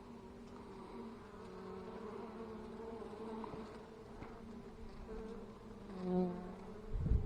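Italian honeybees buzzing around an opened hive: a steady, even hum with a brief louder buzz about six seconds in, likely a bee passing close. Low thumps near the end.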